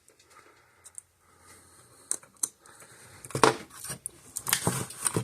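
Handling noise from work on an opened electric fence charger: a few sharp clicks, then a run of louder, irregular knocks and clatters of small hard parts.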